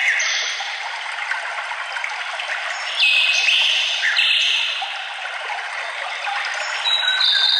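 Steady trickling of running water with songbirds singing over it, the song louder about three seconds in and again near the end.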